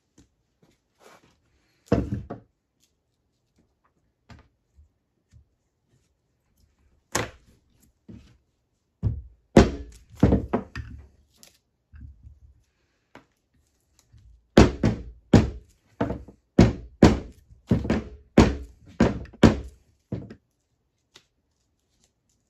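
A series of short, sharp knocks in a small room. A few come singly at first, then a steady run of about a dozen follows at roughly two a second.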